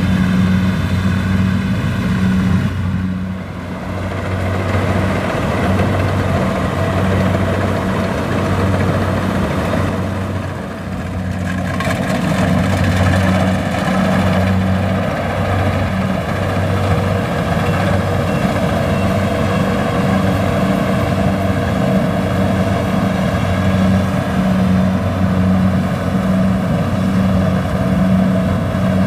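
Kubota DC-70 Plus combine harvester working, its diesel engine running under load with the clatter of the machinery. The engine note pulses unevenly and dips briefly twice.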